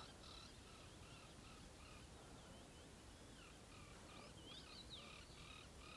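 Faint birdsong: short rising and falling chirps following one another in quick succession, over low outdoor background hiss.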